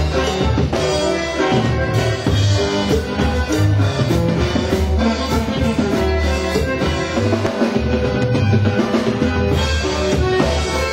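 A norteño band playing an instrumental passage, with a drum kit keeping a steady beat under a pulsing bass line and held melody notes, and no singing.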